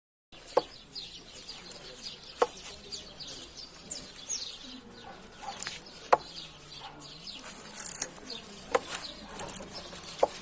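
Short sharp knocks from a motorcycle's front end, five at uneven intervals: the annoying noise the owner traced to an over-tightened front axle bolt. Birds chirp throughout.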